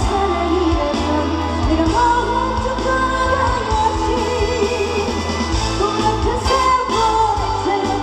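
Live trot song: a female singer's amplified vocal over a loud backing track with a heavy, steady bass line, played through the stage PA.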